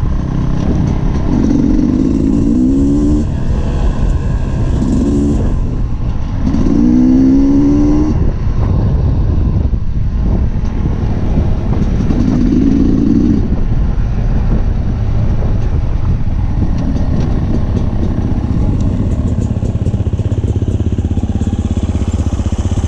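Dirt bike engine running under way with engine rumble, its pitch rising as the throttle opens about four times: near 2 seconds in, around 5, around 7, and again around 12 to 13 seconds.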